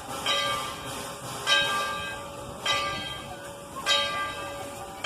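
Locomotive bell ringing in a steady swing, one clang about every 1.2 seconds, each note ringing on briefly.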